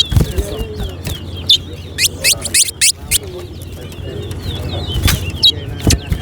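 Caged towa-towa seed finches singing: loud, sharp, very brief whistled notes, several in a quick run about two seconds in and more near the end. Under them runs a constant chatter of many other small birds, over a low, steady background hum.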